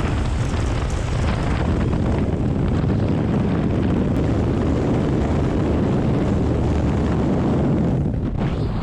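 Loud, steady rush of wind on the microphone, with a low drone underneath, during a skydive from a Cessna. The rush thins and changes briefly near the end.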